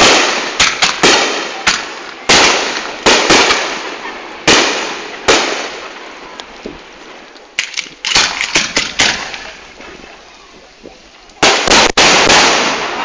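Fireworks display at close range: a rapid, irregular series of loud shell bursts and crackles. They thin out for a couple of seconds before a dense cluster of bangs near the end.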